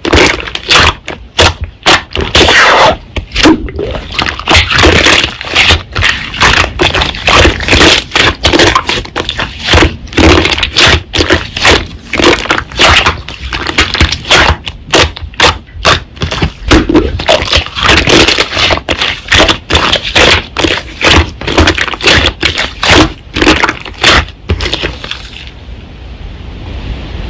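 Slime being squeezed and pressed by hand, giving a fast, dense run of loud crackling and popping clicks that thins to a soft hiss near the end.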